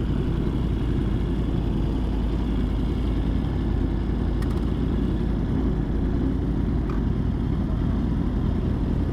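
Steady wind rush over the microphone mixed with a sport motorcycle's engine at a steady cruise.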